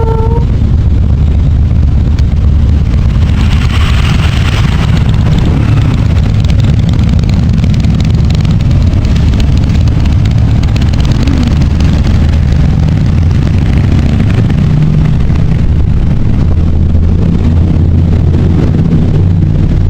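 Motorcycle riding at speed: loud wind buffeting on the microphone mixed with the engine's steady running, with no breaks.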